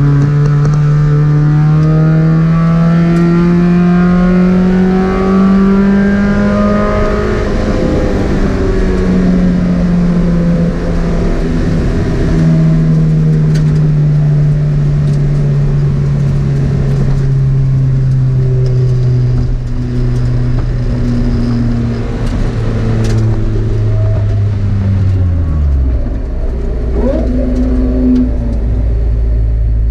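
Spec Miata's four-cylinder engine heard from inside the race car's cabin under power on track. Its pitch rises steadily for the first several seconds, then holds and slowly sags with brief dips. About 25 seconds in the revs fall away quickly, leaving a low, steady rumble.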